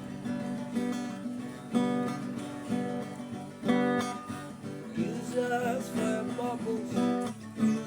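Acoustic guitar strumming chords as the accompaniment to a worship song, with a voice beginning to sing over it about five seconds in.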